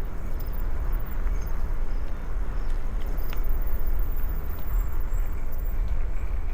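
Wind buffeting the microphone on a moving bicycle: a steady rumble with rushing noise from the ride, and a couple of faint clicks.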